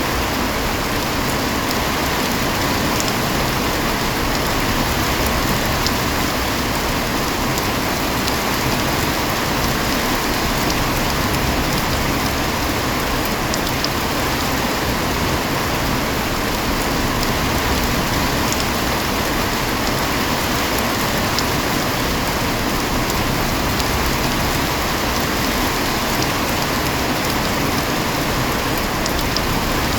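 Heavy rain falling steadily: a dense, even hiss of rain on surfaces, with a few faint, sharp drop ticks scattered through it.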